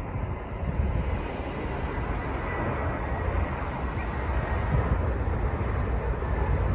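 Jet airliner's engines running steadily as it comes in to land, with a faint high whine, mixed with wind rumbling on the microphone.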